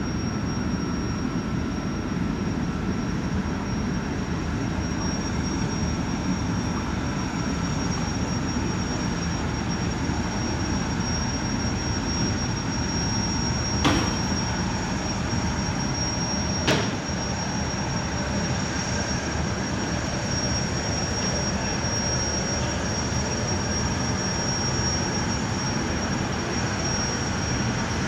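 Jetfoil's gas turbines running with a steady high whine over a broad rumble. Two short sharp clicks come about halfway through, under three seconds apart.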